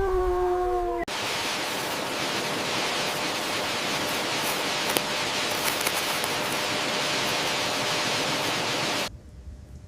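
A drawn-out animal howl ends about a second in. It gives way to a steady, even rushing hiss that lasts about eight seconds and cuts off suddenly near the end.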